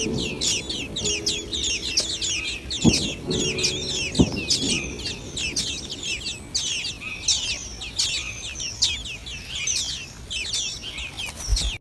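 Nestling birds calling nonstop: many rapid, overlapping, high-pitched chirps, about four or five a second.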